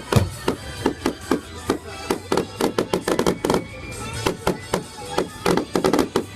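Fireworks going off in a rapid series of bangs and crackles, several a second, thickest around three seconds in and again near the end.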